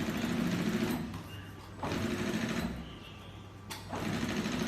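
Mattress tape edge sewing machine stitching in three runs of about a second each, stopping briefly between them, with a steady low hum underneath.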